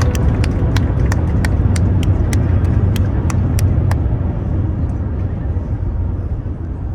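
Airbus A350-941 rolling on the ground after landing: a steady low rumble, with a run of light, evenly spaced ticks about three a second over the first four seconds, the rumble easing slightly toward the end.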